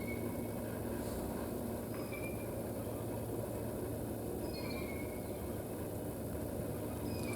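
Birds calling: a few short, faint high chirps a couple of seconds apart, over a steady low rumble.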